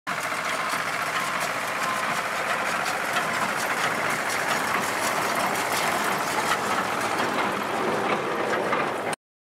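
Harvest machinery running steadily, an engine drone with a fast, irregular clatter of working parts, cutting off suddenly near the end.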